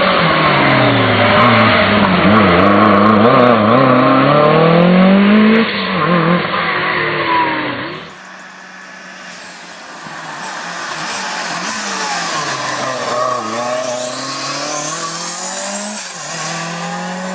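Lancia Delta S4 Group B rally car's supercharged and turbocharged four-cylinder engine being driven hard, its pitch rising and falling through repeated acceleration and lifting. About eight seconds in the sound cuts abruptly to a quieter, clearer recording of the car pulling through the revs again.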